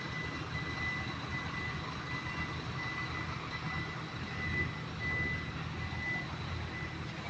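A car engine running steadily at idle, with a constant high whine over its low hum.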